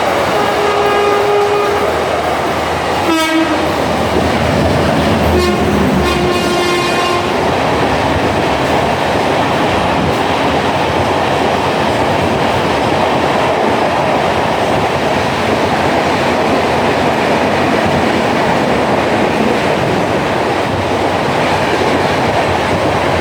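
Train horn sounding several times in the first few seconds, one blast falling sharply in pitch, followed by the steady noise of a train running on the rails.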